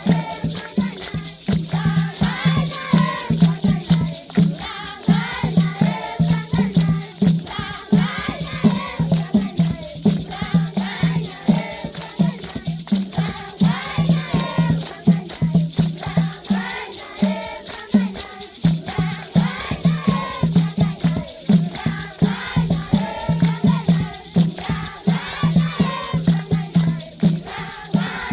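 A group of children singing a traditional Zimbabwean dance song together, with rattles shaken rapidly and a steady low beat underneath.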